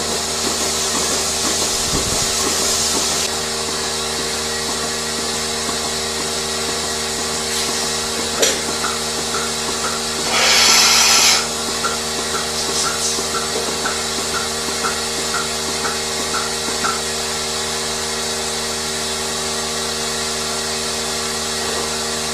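Steady machinery drone with several steady tones. About ten seconds in comes a burst of air hissing lasting about a second, then a run of faint short chirps about two a second.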